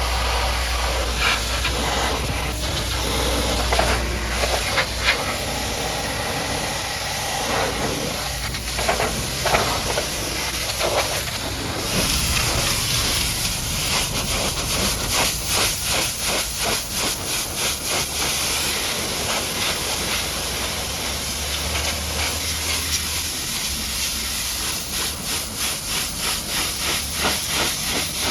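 High-pressure washer jet spraying a muddy truck: a loud, steady hiss, with a low hum under it for the first few seconds. Later the spray comes in rapid, regular pulses.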